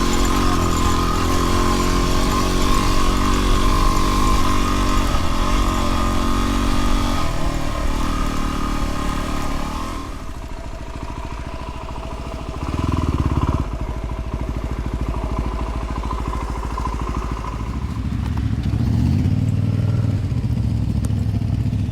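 Dirt bike engine running at low speed, the throttle opening and closing. It gets quieter about halfway, then comes a short burst of throttle and more throttle again near the end.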